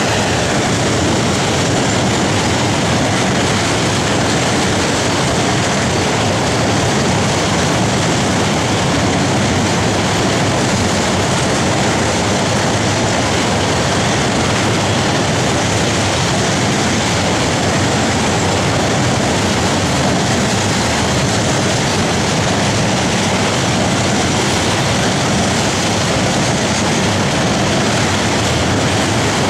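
Freight train of loaded container flat wagons rolling past, a steady, unbroken noise of wheels on the rails.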